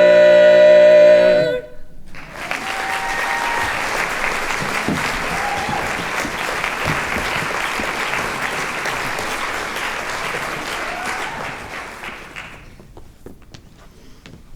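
A barbershop quartet's final held chord cuts off about a second in, then the audience applauds with a few cheers. The applause fades away near the end.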